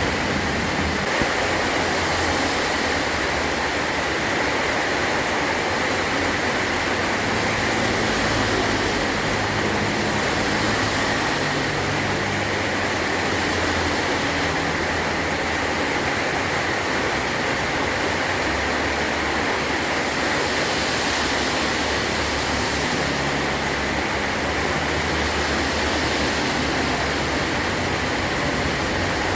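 Heavy rain falling steadily on a metal roof, an even, unbroken hiss.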